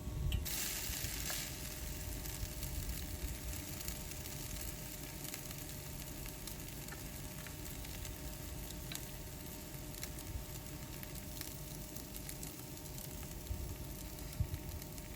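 Steady rain falling: an even hiss dotted with fine, irregular ticks of drops.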